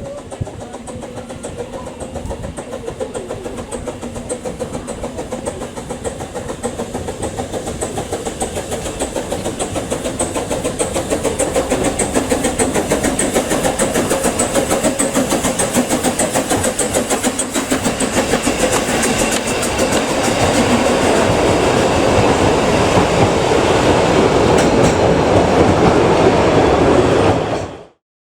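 Narrow-gauge train running with a fast, rhythmic clatter that grows steadily louder, then stops abruptly near the end.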